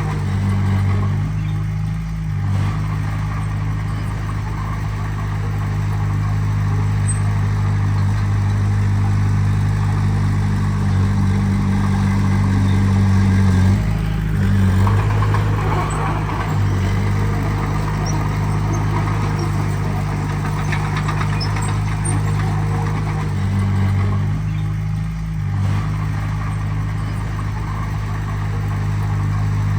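Diesel engine of heavy earthmoving machinery running steadily, its pitch and load shifting briefly three times.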